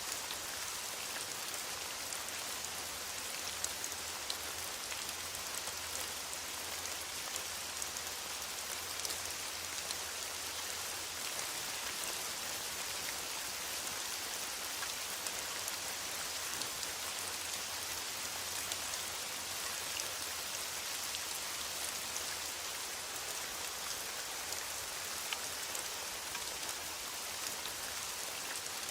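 Steady rain falling on forest foliage, a constant hiss dotted with the small ticks of individual drops.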